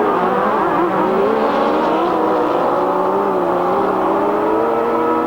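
A pack of grasstrack racing motorcycles running hard together just after the start, their engine notes wavering up and down as the riders work the throttles into the first corner.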